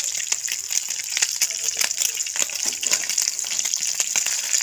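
Dulong-and-egg omelette frying in hot oil in a nonstick pan: a steady sizzle with many small crackling pops.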